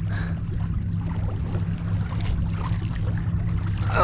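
Boat's outboard motor running steadily at trolling speed, a low even hum under a faint hiss.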